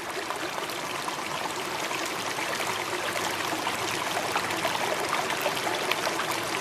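Water running steadily, a continuous splashing rush with fine crackle that grows slightly louder.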